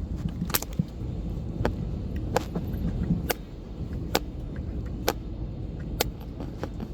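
A phone scraped against a part of the airliner cabin, making short scratchy clicks about once a second over the cabin's steady low rumble.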